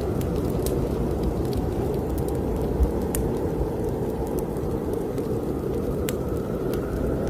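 Snowstorm wind blowing steadily with a hollow whistle that swells again near the end, over a crackling fireplace fire giving scattered sharp pops, a louder one about three seconds in.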